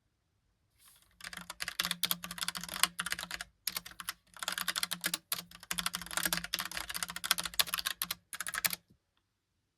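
Logitech Pop Keys mechanical keyboard being typed on quickly, with dense runs of key clicks broken by short pauses. It starts about a second in and stops about a second before the end.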